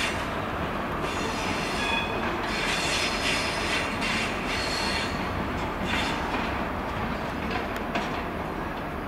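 A Great Western Railway High Speed Train, led by a Class 43 diesel power car, running slowly over curved pointwork, with high thin wheel squeals on the curves about two to five seconds in over the steady sound of wheels and engine.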